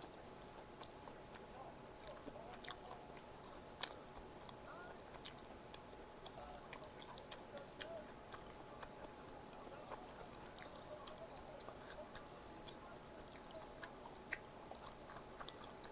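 A person chewing and biting food, with many small crisp clicks and crackles and one sharper click about four seconds in.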